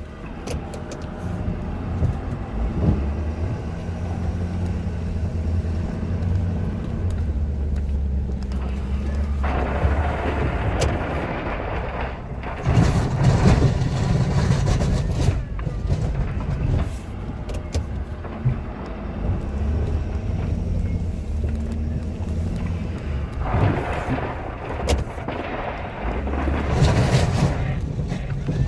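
A Ford F-250's 6.7-litre Powerstroke V8 diesel engine running steadily while the truck plows snow. There are two stretches of louder rushing noise, about ten seconds in and again near the end.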